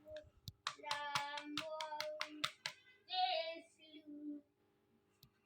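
Male ringneck parrot chattering softly: a quick run of clicks mixed with low muttering notes for about two seconds, then a short, higher call about three seconds in.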